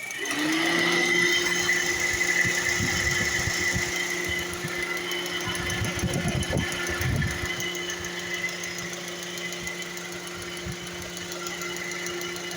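A car's air conditioning switching on: a steady motor hum and high whine that comes up quickly at the start, rising briefly in pitch before holding steady.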